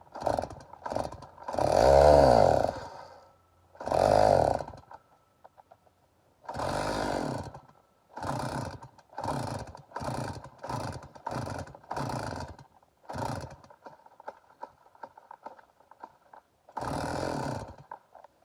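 Stihl MS 290 two-stroke chainsaw being pull-started: the engine fires and revs up and down briefly twice, dying each time, then a quick run of about eight pull-cord strokes and a last pull fail to keep it running.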